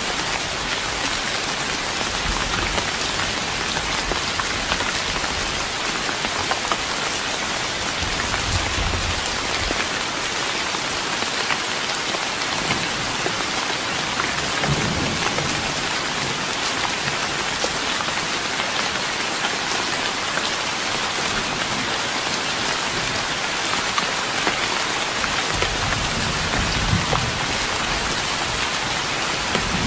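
Steady rain pattering on a wooden deck, a dense, even spatter of drops. A few brief low rumbles rise under it, around a third of the way in, halfway, and near the end.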